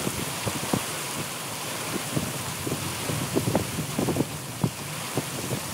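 Heavy rain: a steady hiss with many irregular drops tapping sharply on a nearby surface.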